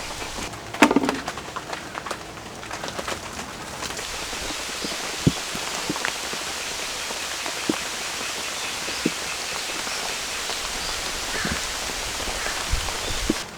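Steady rain falling, with scattered heavier drops landing one by one and a brief clatter of knocks about a second in.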